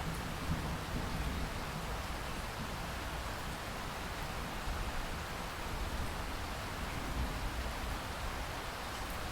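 Steady rain falling, an even hiss, with the low tail of a thunder rumble dying away in the first couple of seconds.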